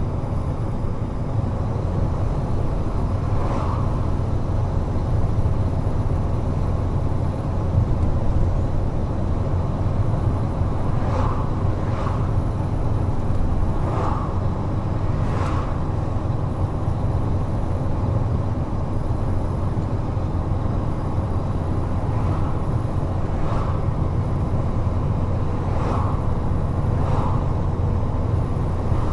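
Large truck cruising on an expressway: a steady low engine and road rumble, with about a dozen short knocks or rattles scattered through it.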